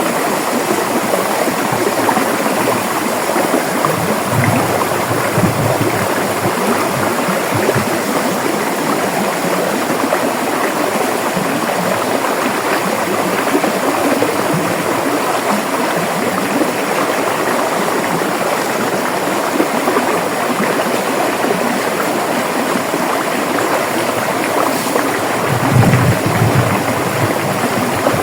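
River water flowing steadily over rocks, a continuous rushing and babbling, with a few brief low rumbles about four to eight seconds in and again near the end.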